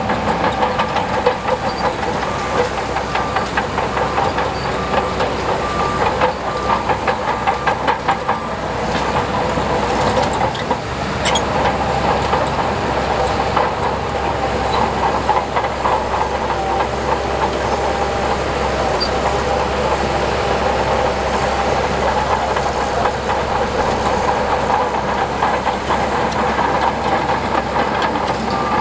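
Diesel engine of heavy earthmoving machinery running steadily under load, with a continuous metallic rattle and clatter.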